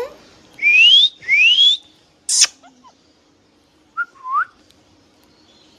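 Green ringneck parrot whistling: two quick rising whistles one after the other, then a short sharp sound, and a brief rising chirp about four seconds in.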